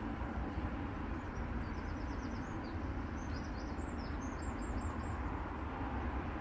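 A steady low rumble of background noise, with faint, short, high bird chirps from about one and a half seconds in until about five seconds in.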